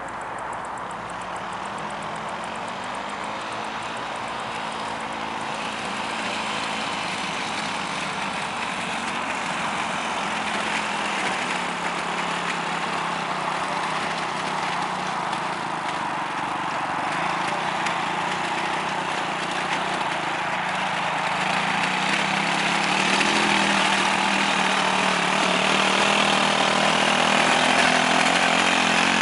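Quad bike engine running steadily, growing gradually louder.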